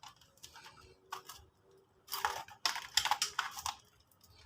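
Clicks and scraping of a rice cooker's power plug and cord being handled and plugged in, the busiest handling about halfway through.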